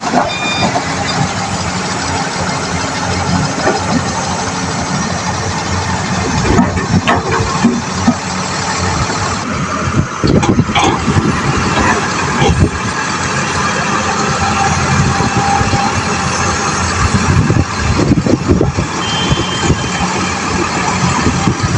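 Heavy construction machinery running under load: a steady diesel engine noise broken by clanks and knocks of metal at several points.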